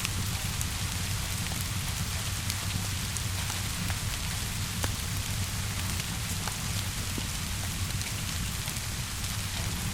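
Steady rainfall, a continuous hiss with a low rumble underneath, mixed with a fire crackling in scattered sharp pops.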